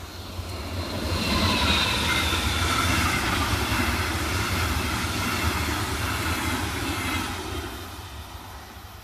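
Train passing by on the line: it swells up about a second in, runs loud and steady for several seconds with a high whine that drops slightly in pitch, then fades away near the end.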